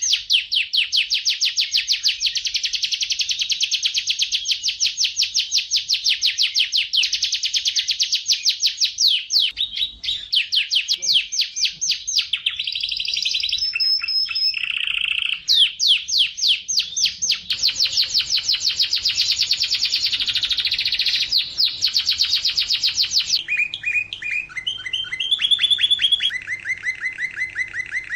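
Domestic canary singing a long, loud song of fast trills, rapid runs of repeated high notes. The trill type changes every few seconds, with a slower, lower trill near the end.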